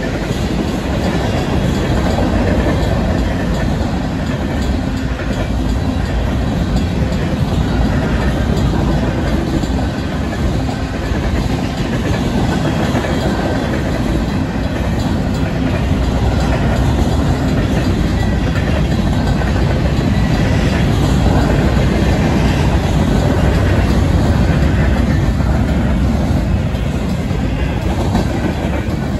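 Union Pacific manifest freight's tank cars and covered hoppers rolling past close by, a loud, steady rumble of steel wheels on the rails. The grade-crossing bells ring on throughout.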